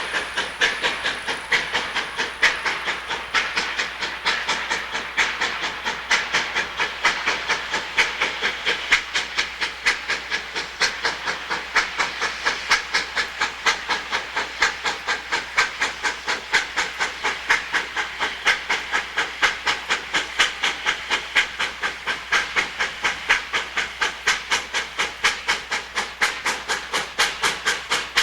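Steam locomotive exhaust chuffing hard and evenly, about three beats a second, as the engine works a three-car train up a steep grade. The blasts are sharp and loud, the sound of a locomotive working at full steam demand.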